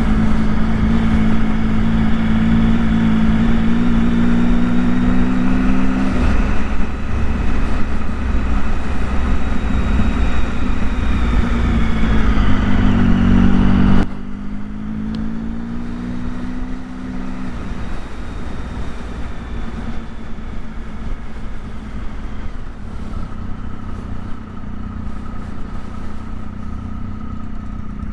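Motorcycle engine running under way, with wind rush and road noise; the engine pitch rises and falls with the throttle. About halfway through, the sound drops suddenly and carries on quieter and steadier.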